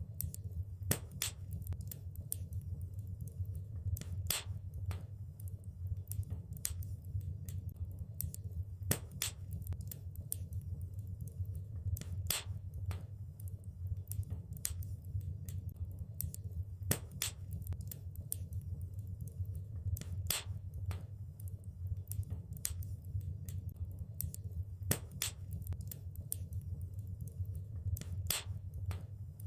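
Wood fire crackling: a steady low rumble of burning with irregular sharp pops and snaps, a few louder ones every few seconds.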